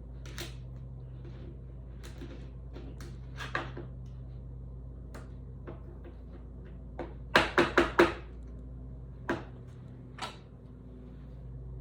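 A trading card being handled into a plastic sleeve and rigid hard case: scattered light clicks and rustles, then four sharp taps in quick succession about seven to eight seconds in, over a steady low hum.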